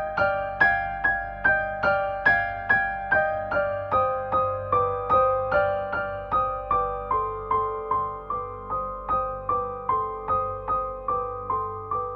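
Background music: a soft piano-like keyboard plays an even, unhurried stream of single notes, about two to three a second, over a low sustained drone.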